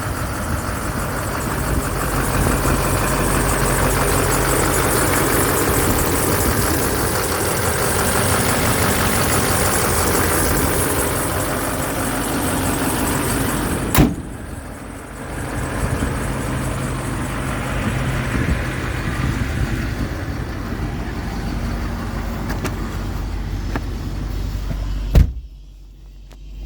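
Duramax 6.6-litre V8 turbo-diesel of a 2008 Chevrolet Silverado 2500HD idling steadily. A sharp click comes about halfway through, after which the sound is quieter, and another click comes near the end, followed by a brief drop.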